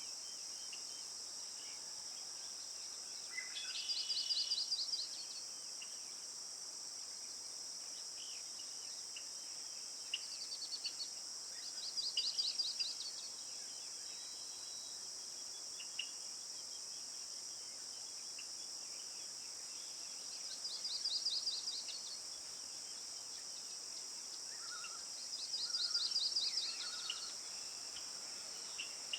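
A steady high-pitched insect drone, with a bird's short rapid trill repeated four times about every eight seconds and a few fainter chirps in between.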